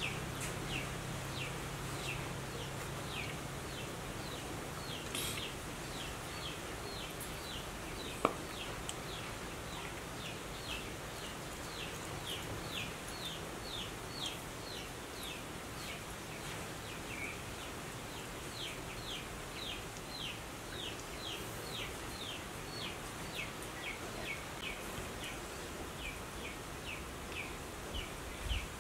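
Outdoor ambience with a bird's short, high, falling chirps repeated about twice a second, and a single sharp click about eight seconds in.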